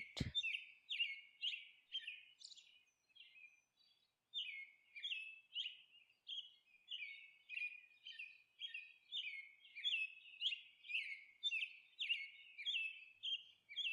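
Small bird chirping: a quiet run of short, downward-sliding chirps, about two a second, broken by a brief pause about three seconds in.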